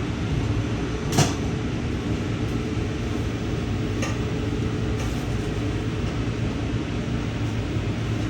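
Ride noise inside a moving Amtrak passenger car: a steady low rumble from the running gear, with one sharp knock about a second in and a lighter click about four seconds in.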